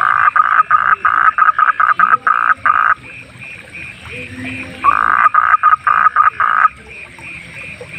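A frog calling loudly in two long bouts of rapid pulses, one at the start lasting about three seconds and another near the middle. Softer calls of other night creatures pulse steadily behind them.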